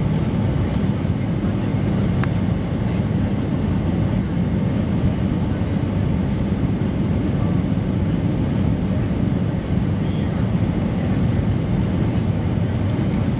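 Steady, loud rumble of a Boeing 757 airliner's jet engines and rushing air, heard from inside the passenger cabin.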